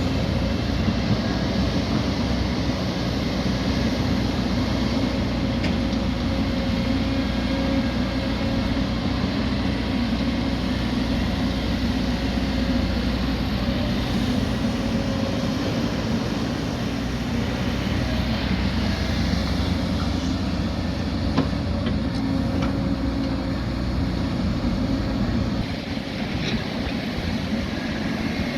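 Diesel engine of heavy earthmoving machinery running steadily at work, with a few faint knocks along the way.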